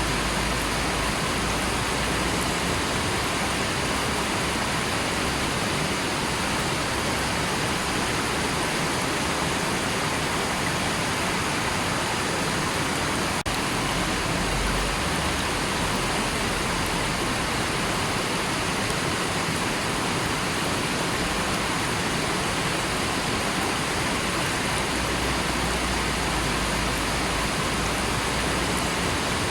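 Steady rushing of a river's flowing water, with a split-second dip about thirteen seconds in.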